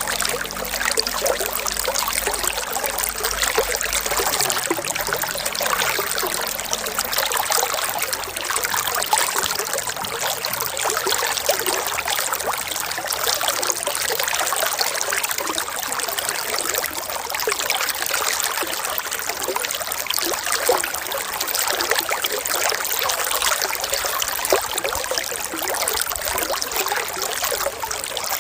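Running water trickling steadily, a dense, even sound with little low rumble.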